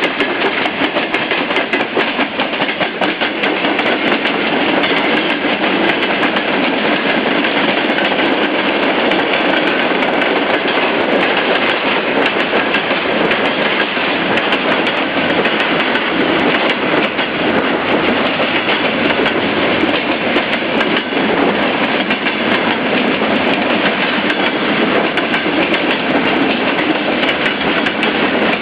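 Freight train's wagons rolling past, a loud steady rumble with continual clickety-clack of wheels over rail joints.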